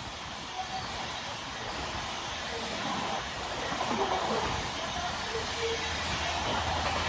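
An approaching train: a broad rushing noise with a low rumble that grows steadily louder, building most near the end.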